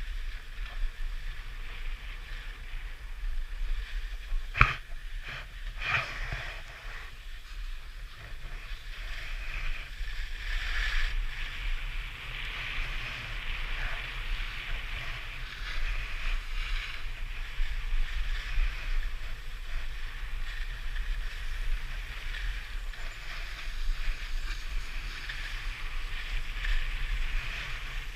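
Skis sliding and scraping over snow on a downhill run, with wind rumbling on the camera microphone. A couple of sharp knocks come about five and six seconds in.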